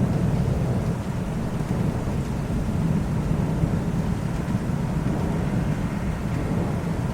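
Rain falling through a thunderstorm, with a steady low rumble of thunder and no sharp crack.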